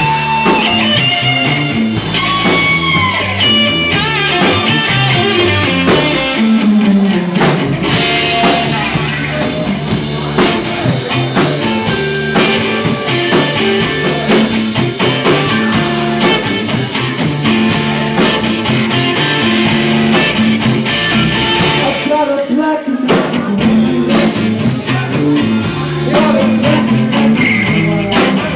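Live rock band playing: electric guitar lead over bass and drum kit, the guitar bending notes in the first few seconds.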